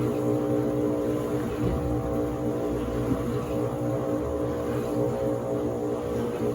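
Electrolux LTD15 top-load washing machine running its wash cycle, before the spin: a steady motor hum with an uneven low churning rumble underneath.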